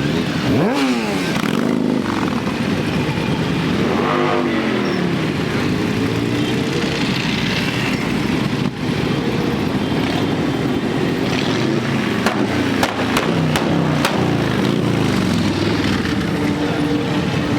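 Motorcycles riding past in a parade: several engines running together, with revs rising and falling about half a second in and again around four seconds in.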